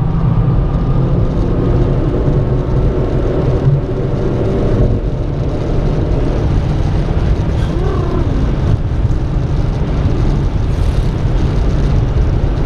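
Renault Clio RS 220's engine running at speed, heard from inside the cabin over loud road and wind noise. Its note drops about five seconds in as the car eases off, leaving mostly a steady rumble.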